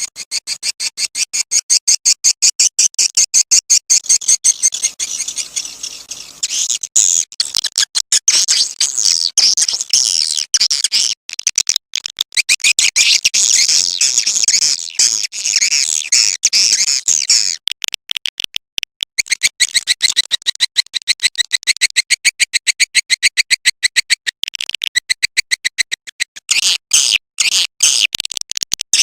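Recorded swiftlet calls used as a lure: a rapid, continuous train of short high chirps, several a second, with brief breaks now and then.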